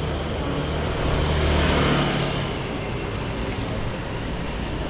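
City street traffic: a motor vehicle's engine hums low, then a vehicle passes close with a rushing swell that is loudest about two seconds in and then fades.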